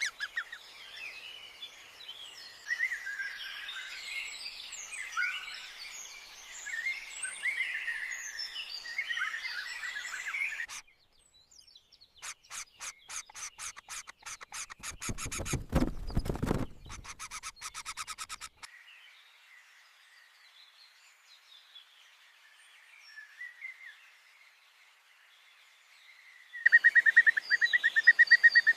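Birds chirping and calling in a dense chorus, which stops abruptly about eleven seconds in. Then come several seconds of fast, even pulses, deepest in the middle, then sparse faint chirps, and near the end a loud rapid trill.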